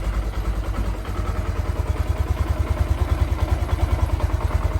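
Honda Grom's 125cc single-cylinder four-stroke engine idling with an even, steady beat. It is relearning its idle after an ECU reset and a repositioned throttle position sensor, and it is ticking over fine.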